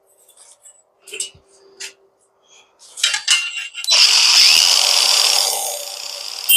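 A few handling clicks and knocks, then a cordless power cutting tool, most likely an angle grinder, starts about three to four seconds in and cuts into metal stock with a loud, high whine and grinding hiss. It eases off briefly near the end, then bites in again.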